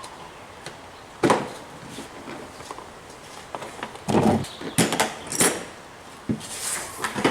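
A handful of separate knocks and clunks from things being handled and set down. The loudest come about a second in and about four seconds in, with smaller knocks between and after.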